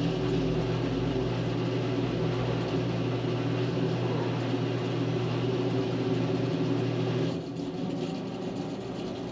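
Electric arc welding: the arc crackles and hisses over the welder's steady electrical hum, then the arc is broken and the sound stops about seven seconds in.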